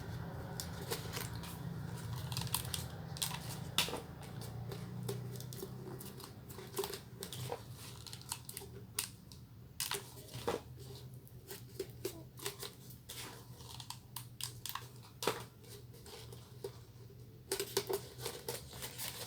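Faint handling of craft materials during hot-gluing: scattered light clicks, taps and crinkles of EVA foam and a plastic PET bottle, over a low steady hum.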